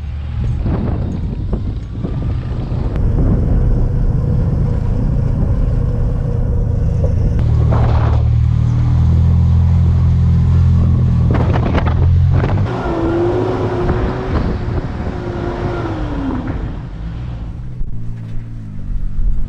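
Off-road truck engine working under load as it crawls a rocky obstacle, pulling harder for several seconds in the middle, with a couple of sharp knocks.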